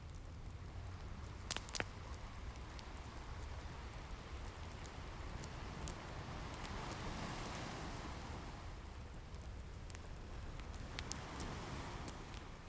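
Wood fire crackling with scattered sharp pops, over a steady low rumble of ocean waves that swells as a wave rolls in about halfway through and again near the end.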